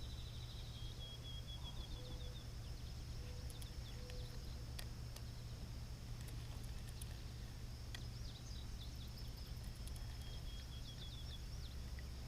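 Outdoor pond ambience. A bird gives a rapid trill of quick repeated chirps near the start and again in the last third, over a steady high insect drone and a low rumble. A few faint clicks are heard.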